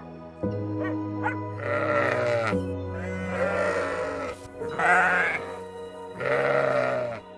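Four bleats, each about a second long with a quavering pitch, from a sheep or goat-like animal, over steady background music.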